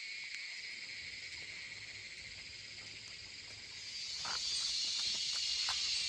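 Steady high-pitched chorus of insects, growing louder about four seconds in, with a few faint clicks near the end.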